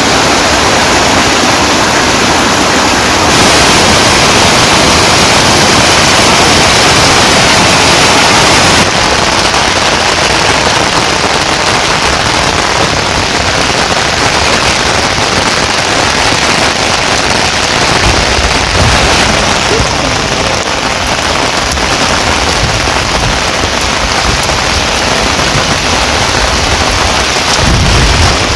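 Heavy rain pouring down, a loud, dense, steady hiss whose texture changes abruptly a couple of times. Low rumbling joins in during the last third.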